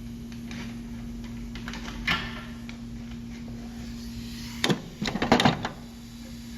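Light knocks and clicks of hand tools and parts being handled during wheel-bearing repair work, over a steady low hum. There is a short clatter about two seconds in and a quick cluster of sharper knocks near the end.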